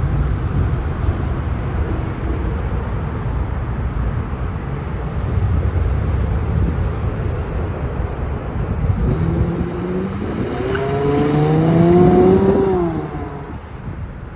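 Infiniti FX35's 3.5-litre V6 driving by: a steady low rumble, then about nine seconds in the engine note climbs as it accelerates, loudest a few seconds later, before falling away.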